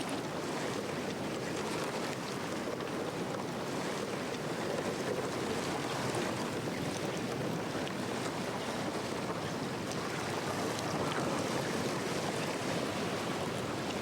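Steady sloshing and crackling of water and brash sea ice as a kayak is pushed through it.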